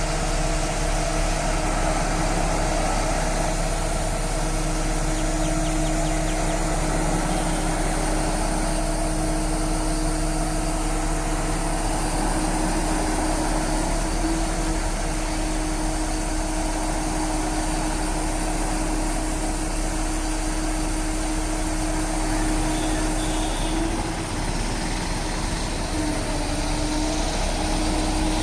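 Mobile crane's engine running steadily, with a steady whine that shifts slightly in pitch a few times in the second half.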